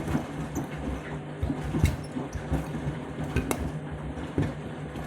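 Candy washing machine on its rinse cycle: the drum turns with a steady motor hum while shoes tumble and knock against it, the sharpest knocks about two seconds in and again about three and a half seconds in.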